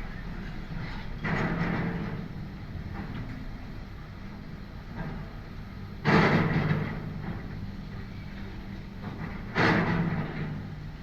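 A heavy machine's engine running steadily on a building demolition, with three crashes of falling debris: one about a second in, the loudest about six seconds in, and another near the end, each dying away over about a second.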